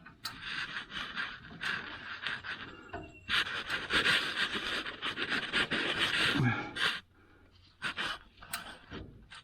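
A man breathing hard with effort while working a wrench on the barbed end of a truck's emergency brake cable, with short metallic clicks and scrapes from the tool. The breathing is heaviest over the middle stretch and eases off near the end.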